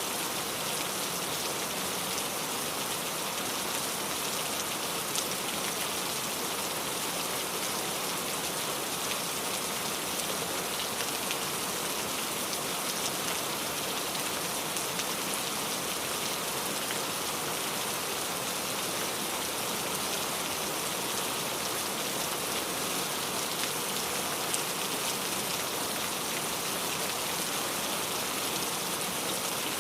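Steady rain falling, with a dense even hiss and scattered individual drops ticking.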